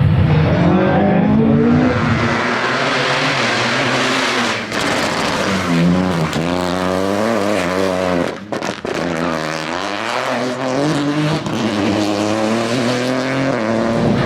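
Rally car engine revving hard, its pitch climbing and falling as it runs through the gears, with short lifts off the throttle about four and a half and eight and a half seconds in.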